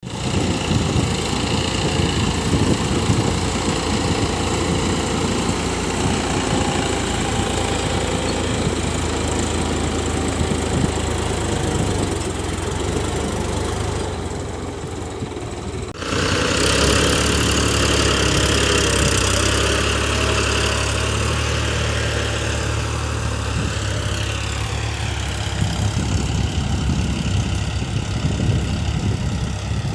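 New Holland 52 hp tractor's diesel engine running steadily. A little before halfway it eases off. Then the sound breaks abruptly and the engine comes back louder and brighter for the rest.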